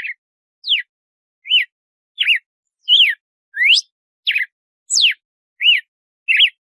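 Red-cowled cardinal (galo-de-campina) singing in the 'açoite' style: ten clear whistled notes, about one and a half per second, each a quick slurred glide, some falling and some rising then falling.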